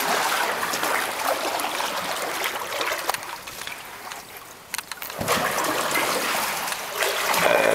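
Kayak paddling inside a tunnel: water splashing and trickling off the paddle blades, swelling and fading with the strokes, with a quieter stretch around the middle.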